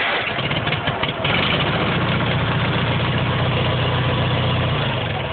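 Sears garden tractor's small gasoline engine running steadily at idle just after a cold start.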